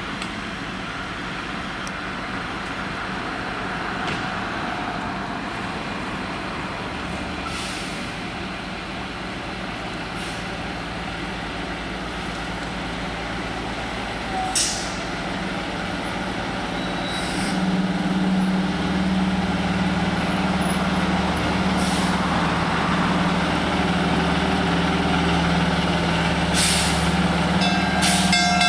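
Fire truck engine running steadily, growing louder about two-thirds of the way through, with several short air-brake hisses.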